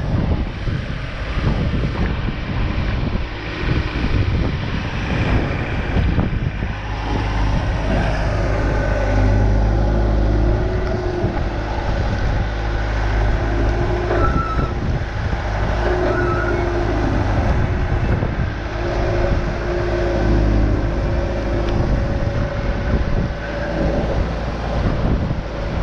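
Engines running: a steady low rumble, with a higher engine note that rises and falls, typical of a forklift working beside the truck.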